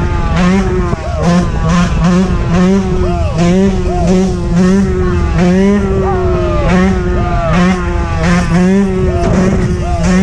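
Dirt bike engines running close by, revved up and down in quick repeated blips.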